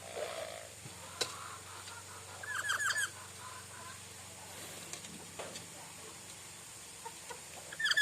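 A bird calls in two quick bursts of about five rapid chirps each, about two and a half seconds in and again near the end, with a sharp click about a second in.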